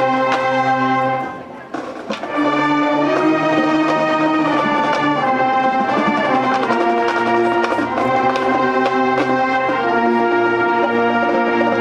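Marching band brass section playing sustained chords that shift every second or two; the sound breaks off briefly a little over a second in and comes back on a new chord.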